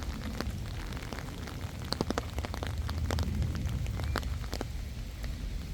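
Wind rumbling on the microphone outdoors, with a scatter of sharp clicks and crackles, thickest about two to three seconds in.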